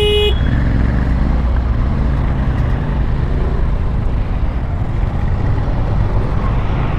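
Vehicle engines running steadily in jammed traffic, a low continuous rumble. A horn blast cuts off just after the start.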